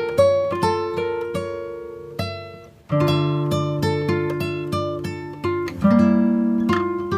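Background music: an acoustic guitar picking a melody of single plucked notes that ring and fade. It briefly dies away about three seconds in before the playing resumes.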